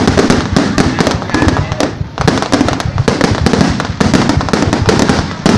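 Fireworks going off in a dense, continuous barrage of rapid bangs and crackles, with no break.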